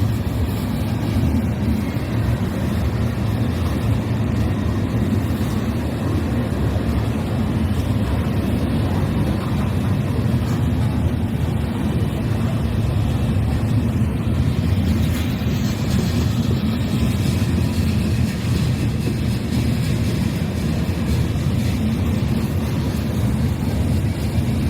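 CSX local freight train of gravel cars rolling past: a steady, unbroken low rumble of wheels on rail.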